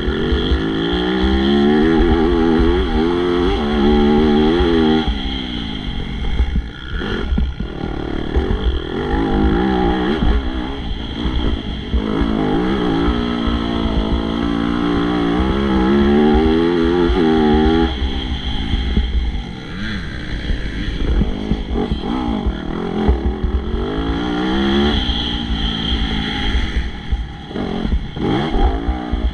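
MX2 motocross bike engine racing: the engine note climbs in pitch again and again as the bike accelerates and shifts, then drops back between pulls.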